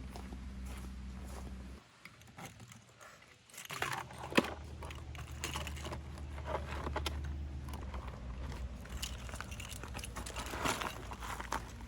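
A low steady hum that cuts out about two seconds in and returns about two seconds later, overlaid with rustling and many small clicks of objects being handled, one click sharper than the rest.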